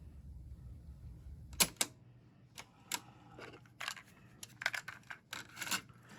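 A low hum stops with a sharp click about a second and a half in. After it come irregular small mechanical clicks and knocks, as from parts or controls of a cassette deck being handled during repair.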